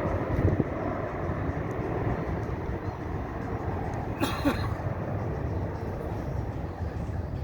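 Jet engines of a Boeing 777F freighter (GE90s) rumbling as a steady, slowly fading roar, with a brief hiss a little over halfway through.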